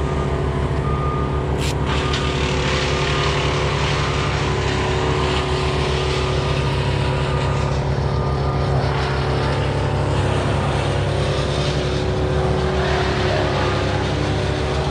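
An engine running steadily at idle, with a brief sharp click a couple of seconds in.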